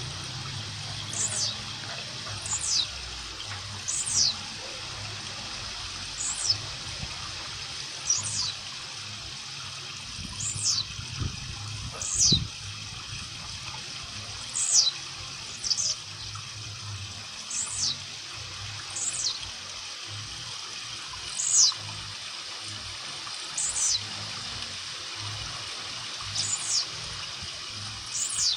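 Young blue-black grassquit (tiziu) practising its song: short, high notes that sweep downward, repeated about every one and a half seconds, some in close pairs, over a steady hiss. It is a juvenile's practice song, not yet the adult's full call.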